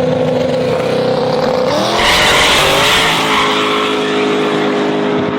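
The twin-turbo Chevy Silverado pickup's engine runs at full throttle in a drag race. Its pitch climbs again about two seconds in, and it is loudest between two and three seconds in, as it goes by with a rush of noise.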